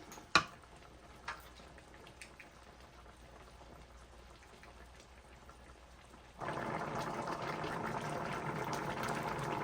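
A sharp knock just after the start, then faint small ticks; about six seconds in, a steady bubbling of a pot of broth at the boil starts abruptly and keeps going.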